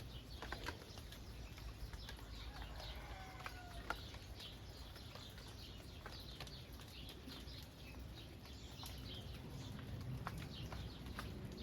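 Light rain falling in open countryside, with many small birds chirping throughout and a longer, lower bird call about three seconds in.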